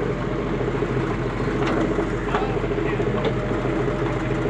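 Heavy diesel engine running steadily, with a few light knocks about two and three seconds in.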